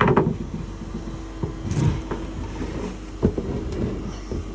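A few separate knocks and clatters as a battery box cover is handled and opened, over a steady low machinery hum.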